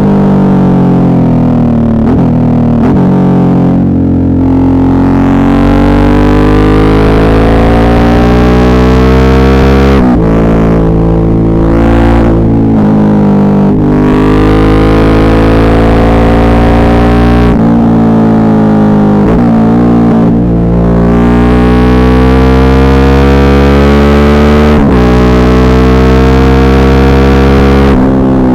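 Suzuki V-Strom 650's V-twin engine pulling hard, its pitch rising and falling with the throttle and breaking sharply several times as gears change. The recording is loud and distorted.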